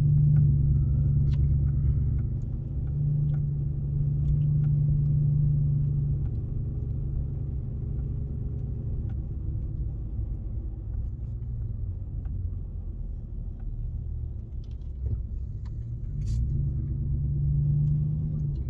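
A motor vehicle being driven on the road: a steady low engine drone with road rumble, swelling louder at the start, again a few seconds in, and near the end.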